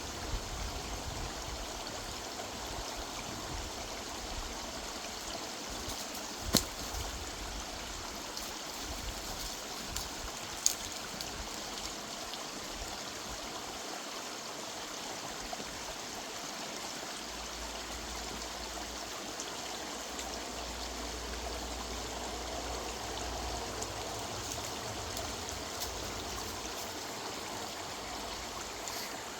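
River water running steadily over a woodland streambed, an even rushing and trickling. Two sharp clicks cut through it, one about six seconds in and one about four seconds later.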